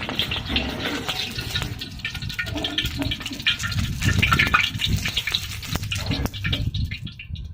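Hot oil sizzling and crackling as food fries in a pan, with a low rumble beneath it. The sizzle thins out near the end.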